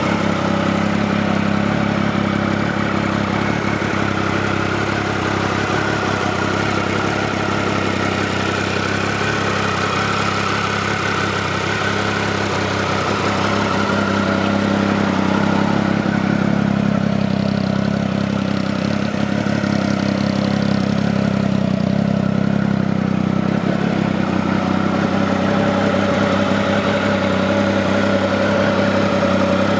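Triumph Speed Triple 1050 RS's 1050 cc inline three-cylinder engine idling steadily.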